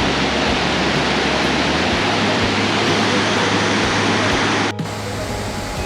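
Waterfall roar of Burney Falls close by: a loud, steady rush of falling water and spray. About three-quarters of the way through it cuts off abruptly to a quieter, fainter background.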